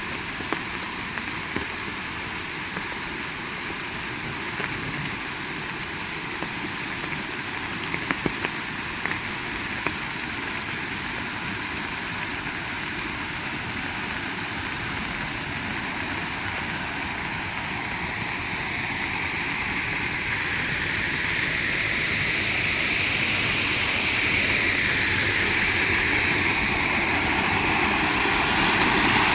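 Heavy rain falling steadily, a dense hiss with a few sharp taps of drops, a cluster of them about eight seconds in. It swells louder over the last third.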